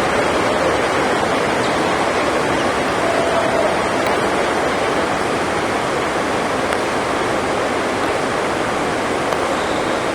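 Heavy rain on the sports hall's roof, a steady even roar of noise, with a few faint ticks over it.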